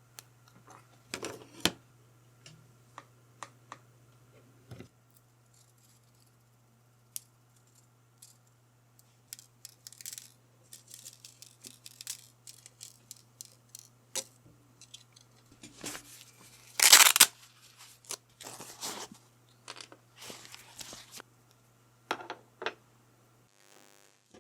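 Packaging or tape being torn and handled: scattered light clicks and taps, then a run of rustling, tearing bursts, the loudest one late on. A steady low hum runs underneath and stops shortly before the end.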